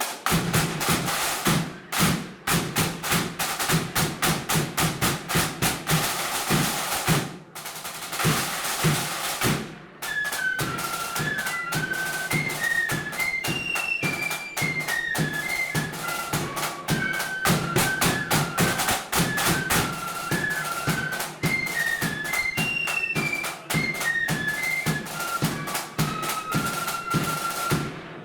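Blood-and-thunder marching flute band: snare drums and bass drum play alone with rolls for about ten seconds, then the flutes come in with a quick melody over the drums.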